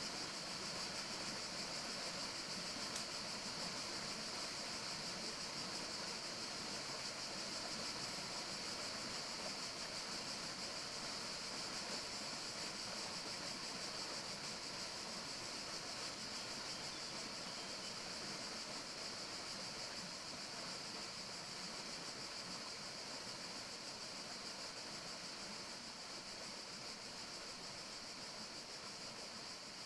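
Steady forest ambience: an even, rushing hiss with no distinct calls or knocks, easing off slightly near the end.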